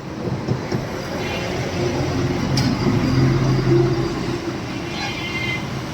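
A road vehicle going past close by: engine hum and road noise that build to a peak about three to four seconds in, then fade.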